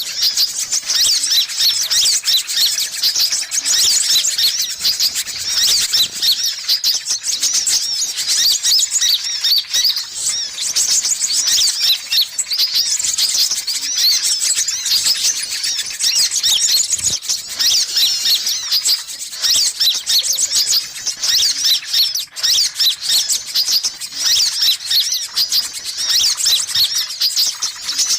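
Sunbirds calling in a fast, dense stream of high-pitched chirps and twitters with no pauses: a loud, continuous sunbird lure recording.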